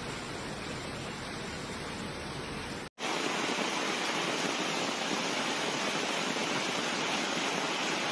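Steady rush of water, heavy rain and flowing floodwater. About three seconds in it cuts off briefly and comes back louder.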